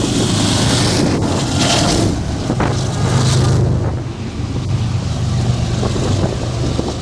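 Wind buffeting the microphone over a steady low engine drone, the gusts easing after about three and a half seconds.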